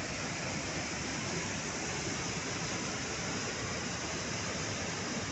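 Steady rushing of waterfall water, an even noise that holds the same level throughout.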